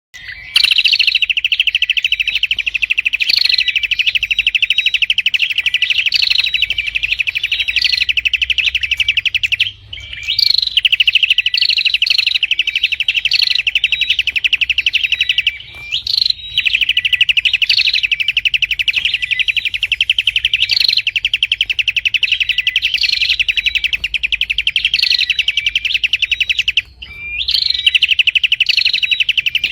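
Prinia (prenjak) singing a fast, unbroken chatter of sharp repeated chirps around one pitch, with higher notes breaking in every second or so. The chatter stops briefly three times.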